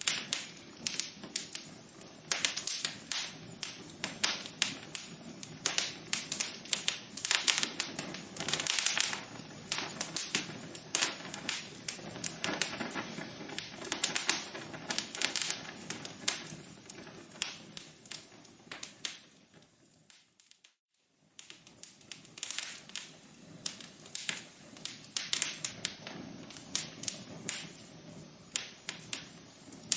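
Wood fire in a fireplace crackling, with dense, irregular sharp pops and snaps over a soft hiss. About two-thirds of the way through it fades almost to silence for about a second, then resumes.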